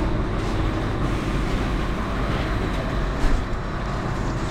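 Steady low rumble of a vehicle in motion, with an even hiss over it.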